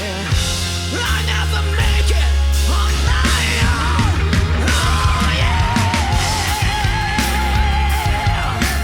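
Rock band playing loud, with heavy bass, drums and distorted instruments; in the second half a long wavering high note is held over the band.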